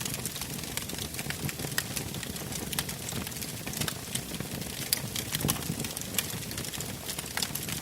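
Wood fire burning in a fireplace, crackling with frequent irregular sharp pops and snaps over a low, steady rush of flame.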